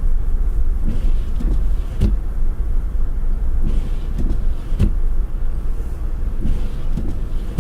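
Steady low rumble of a car heard from inside the cabin, with two short knocks, about two and five seconds in.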